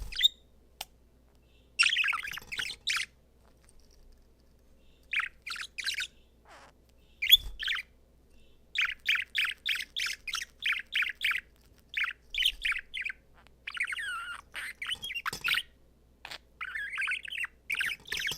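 Male budgerigar singing and chattering: phrases of short high chirps with pauses between them, then a fast run of evenly spaced chirps in the middle and warbling toward the end.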